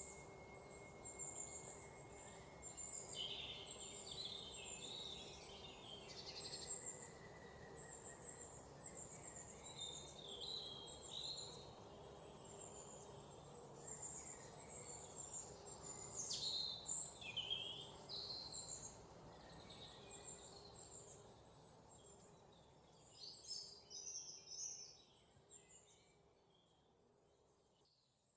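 Several small birds chirping and singing in overlapping short calls over a faint steady background hiss; the whole sound fades away over the last few seconds.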